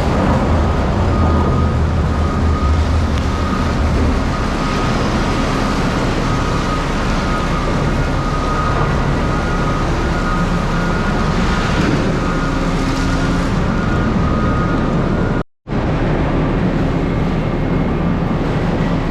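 Vehicle driving on the road: steady engine and road noise with a low rumble. The sound cuts out abruptly for a split second about three quarters of the way through, then resumes.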